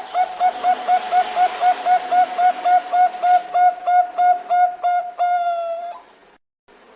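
Zebra dove (Bangkok-type perkutut) calling: a fast run of about twenty short cooing notes, roughly four a second, ending in one longer held note that cuts off about six seconds in.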